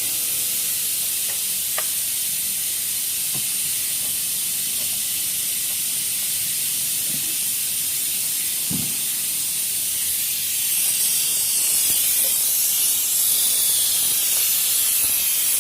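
A steady spraying hiss that grows louder about ten seconds in, with a few faint knocks.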